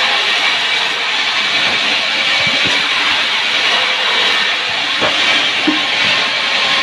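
A loud, steady hissing noise with a few faint knocks.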